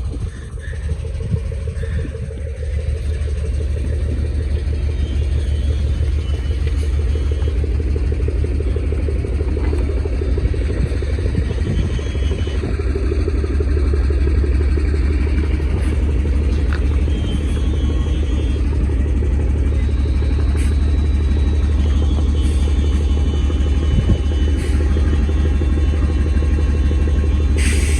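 Heavy truck engine running, a steady deep rumble that grows louder over the first few seconds and then holds.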